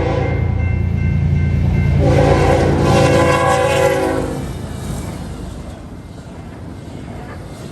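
Train horn sounding as a chord of several tones: the tail of one blast at the start, then a louder blast of about two seconds beginning about two seconds in, over the low rumble of the locomotive. After the horn stops, the steady rumble of the train rolling by.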